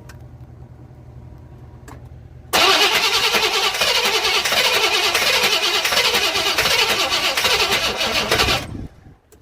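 Squarebody Suburban engine, long dormant, catching about two and a half seconds in on a splash of gas poured into the intake and running loud and rough for about six seconds, then dying abruptly near the end. Before it catches there is only a faint low hum.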